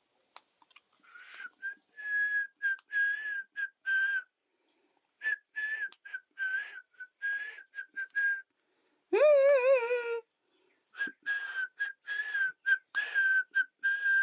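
Whistling: a long run of short notes on nearly the same pitch, with a breathy edge, broken by one louder wavering call about nine seconds in.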